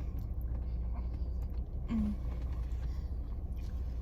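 Steady low rumble of a car idling, heard from inside the cabin, with a short hummed "mm" about two seconds in.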